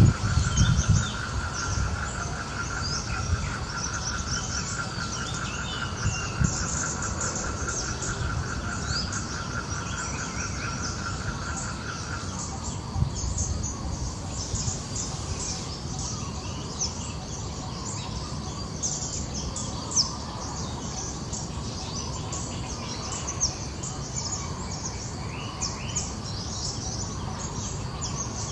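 Outdoor ambience of many small birds chirping throughout, with a steady, rapidly pulsing trill at one pitch that stops about twelve seconds in.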